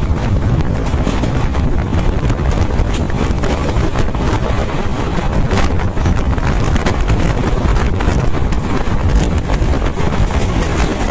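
Wind rushing and buffeting the microphone over the steady rumble of an express passenger train running at speed, heard from on board.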